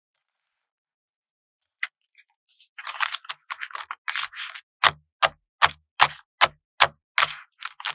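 Stickers and sticker sheets being handled: after a pause, a click and a spell of crinkly paper-and-plastic rustling, then a run of sharp, evenly spaced taps on the sheet, about two and a half a second.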